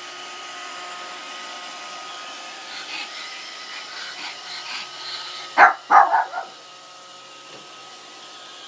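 Roomba robot vacuum running with a steady hum, and a dog giving a quick run of about three barks a little past the middle.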